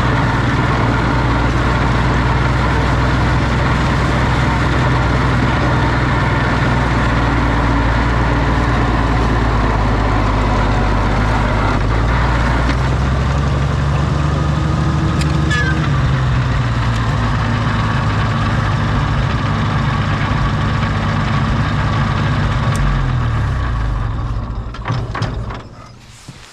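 Oliver OC-6 crawler tractor's engine running steadily, then slowing and dying away as it is shut off near the end.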